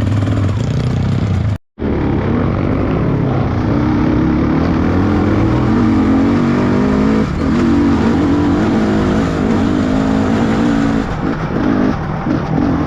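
Trail motorcycle engine running and revving under load, its pitch rising and falling. The sound cuts out completely for a moment about one and a half seconds in.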